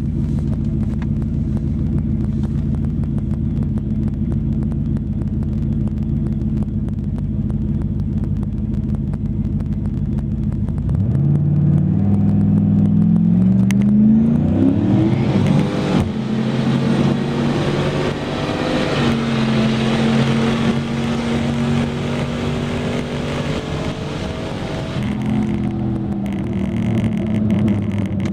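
Turbocharged 5.3 L V8 of a 2006 Monte Carlo SS on a quarter-mile drag pass. A steady low rumble runs for about the first eleven seconds. Then the engine note climbs in pitch as the car launches, climbs again after a shift, holds a steady higher note, and falls away about three seconds before the end.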